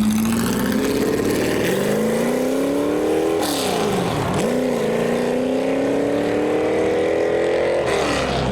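Ford GT40's V8 accelerating hard away. Its pitch climbs through a gear, drops at an upshift about three and a half seconds in, climbs again, and drops at another upshift near the end.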